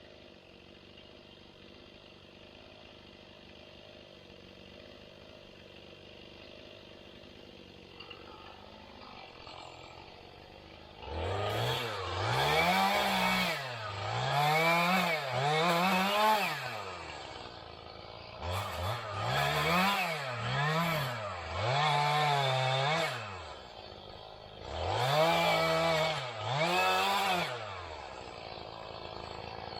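Chainsaw engine revving up and down over and over in three bursts, each rev a quick rise and fall in pitch, after a stretch of faint steady engine hum.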